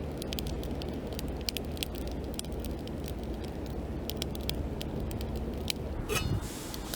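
Firewood burning in a fire pit, crackling with many sharp irregular pops over a steady low rumble, with a short hiss near the end.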